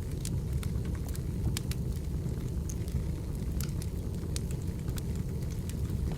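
Wood fire crackling: a steady low rush of burning logs with scattered sharp pops and snaps of firewood.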